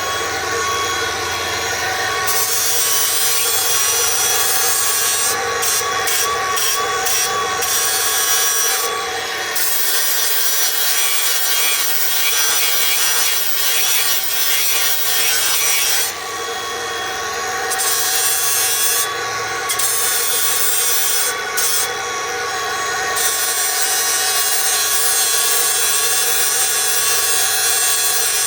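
Milwaukee M18 Fuel cordless angle grinder running at high speed, about 9,000 RPM, grinding a solid metal billet. Its motor gives a steady whine under the hiss of the disc on the metal. The hiss eases off briefly several times as the disc lifts or the contact lightens.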